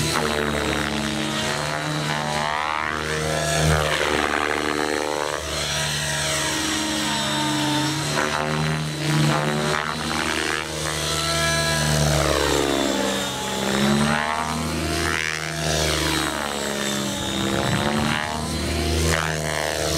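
Align T-REX 700 DFC electric radio-controlled helicopter in flight: rotor blades and electric motor running, the pitch sweeping up and down again and again, over a thin steady high whine.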